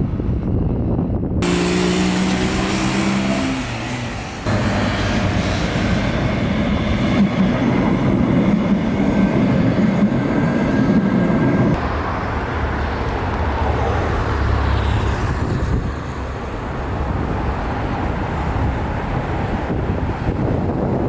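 Outdoor road traffic noise with vehicle engines running, in several spliced recordings that change abruptly every few seconds.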